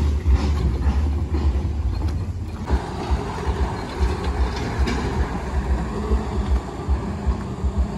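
Toyota Dyna truck's engine running with a heavy low rumble; a little under three seconds in, the sound becomes fuller and rougher in its middle range and holds there.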